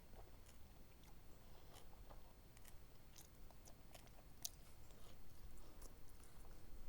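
Faint chewing with scattered soft, wet mouth clicks and smacks, irregularly spaced.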